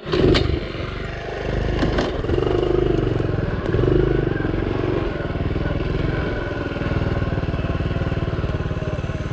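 Honda CT70's small four-stroke single-cylinder engine running under way, its pitch and level swelling and easing as the throttle is worked, with a couple of sharp knocks in the first two seconds.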